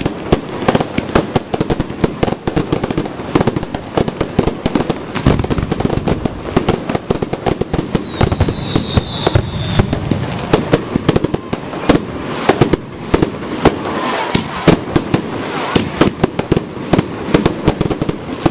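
Fireworks display going off: a dense, continuous run of cracks and bangs, several a second, with a short high whistle about eight seconds in.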